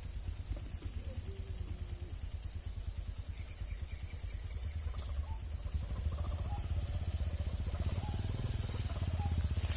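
A small engine running with a rapid low pulsing rumble, of the motorcycle kind, getting a little louder after about six seconds, under a steady high-pitched hiss.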